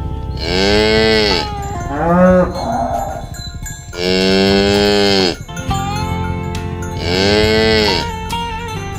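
Cows mooing: three long moos, each rising and then falling in pitch, with a shorter call about two seconds in.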